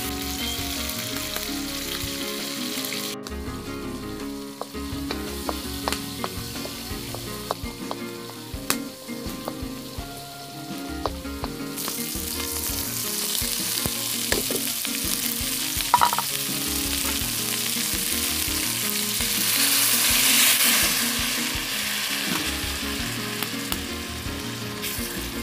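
Diced pork sausage (linguiça) sizzling as it fries in fat in a large iron wok, stirred with a wooden spoon that makes small scraping clicks. The sizzle swells about two-thirds of the way through as chopped onion, peppers and green onion go into the hot pan and steam.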